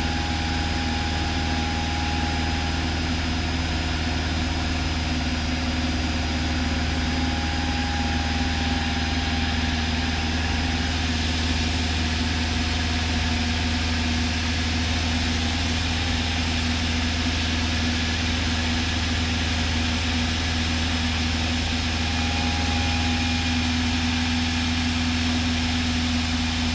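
Light aircraft's piston engine and propeller heard from inside the cabin, a steady drone in cruise with no change in pitch.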